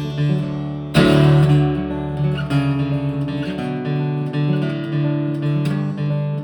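Acoustic guitar strumming chords in an instrumental break of a song, with a strong strum about a second in.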